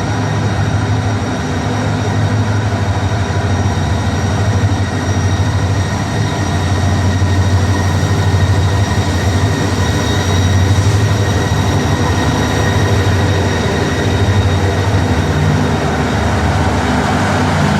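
Passenger train running steadily: a continuous low rumble with a thin, even whine above it.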